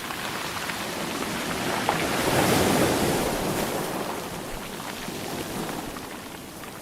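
Sea waves breaking on the shore: the surf swells to a crash about two and a half seconds in, then washes back and fades.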